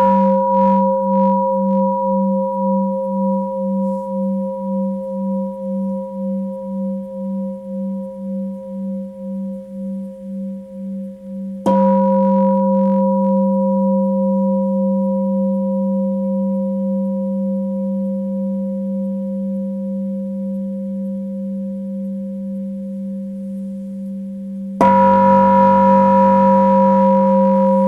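Tibetan singing bowl ringing with a deep, wavering tone that slowly fades. It is struck again about twelve seconds in and again near the end, each strike bringing the ring back up to full strength.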